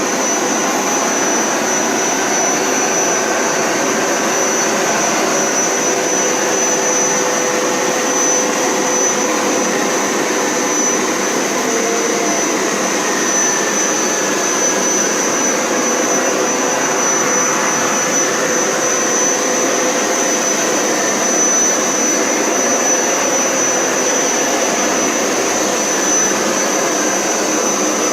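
Hoover Power Scrub Elite Pet upright carpet cleaner running steadily on its wash setting while scrubbing a rug, a loud even motor noise with a steady high whine.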